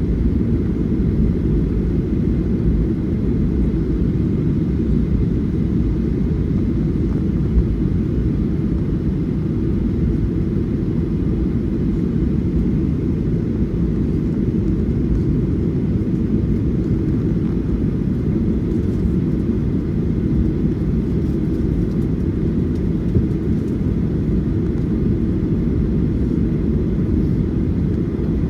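Steady low rumble inside the cabin of a Boeing 737-800 taxiing after landing, its CFM56 engines at idle, with a faint steady whine above the rumble.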